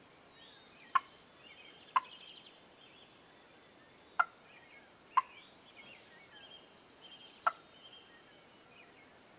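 Wild turkey hen giving five sharp single putts, spaced one to two and a half seconds apart: the alarm call of a hen that senses something is wrong. Faint songbird twittering runs underneath.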